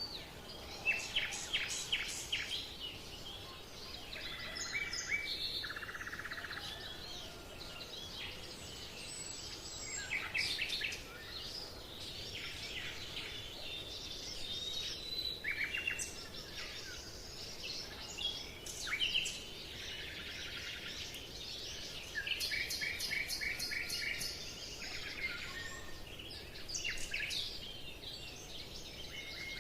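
Several songbirds chirping and singing, with rapid trills and short calls overlapping over a faint steady background hiss.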